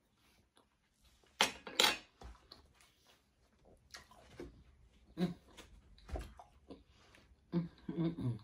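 A person biting into and chewing juicy watermelon close to the microphone, in a series of short wet crunches. The loudest two come about a second and a half in, and more follow every second or so.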